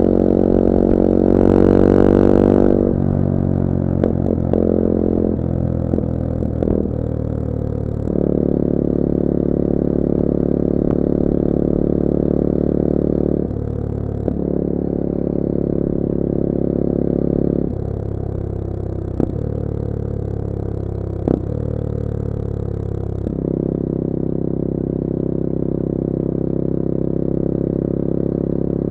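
Bullit Hero 250's CF Moto-built 250cc four-stroke engine running on the move. It revs up about two seconds in, then holds steady stretches, its pitch and loudness stepping abruptly several times, with a few short sharp clicks along the way.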